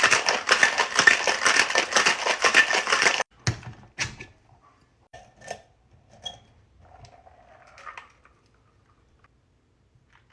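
Cocktail shaker with ice shaken hard, a dense rapid rattle that stops suddenly a little over three seconds in, followed by a few knocks and light clinks.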